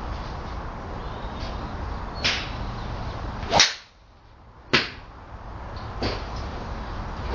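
Golf club heads striking balls at a driving range: a sharp crack about three and a half seconds in, the loudest, with fainter strikes about a second before and after it and another near the end.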